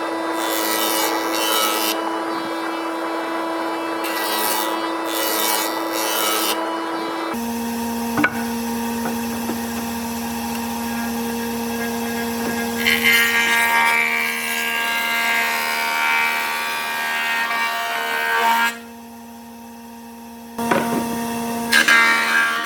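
Electric power tools running on wood: a steady motor whine with a rasping edge, which shifts to a lower pitch about seven seconds in. It drops away for a couple of seconds near the end, then starts again.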